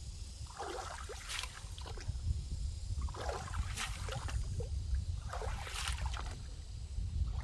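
Repeated splashing strokes in shallow water, about one every two and a half seconds, over a low steady rumble.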